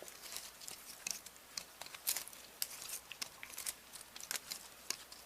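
Faint, irregular crinkling and small clicks of VHS videotape and cassette parts being handled, without a steady rhythm.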